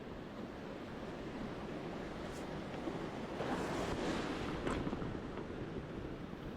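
Ocean surf on a beach: a wave builds, breaks and rushes in about midway through, then eases back to a steady wash.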